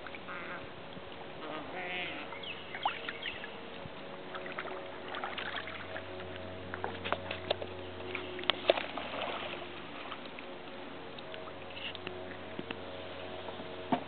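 Canoe being paddled: irregular knocks and clicks of the paddle against the hull and water, loudest about eight and a half seconds in, over a steady hum.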